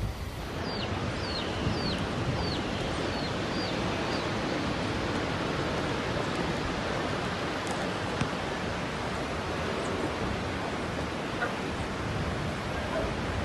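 A bird calls about seven short notes, each dropping in pitch, roughly two a second over the first few seconds. Behind it runs a steady, loud rushing noise.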